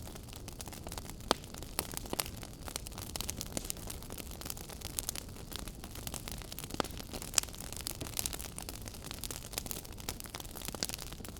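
Wood fire burning in a fireplace, crackling: a steady low rush of flame with frequent sharp pops and snaps, the loudest about a second in and again past halfway.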